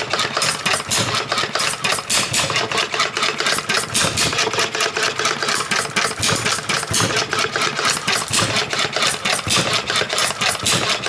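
Early Ervin hit-and-miss gas engine running, a fast, even clatter of clicks with a regularly pulsing beat.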